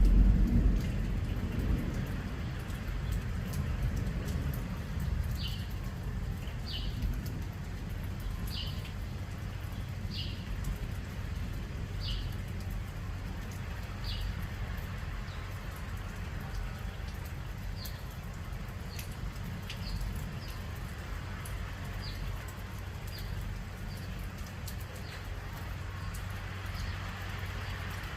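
Steady low rush of storm rain and wind, with a heavier low rumble at the very start. A bird repeats a single short, high chirp about every one and a half to two seconds.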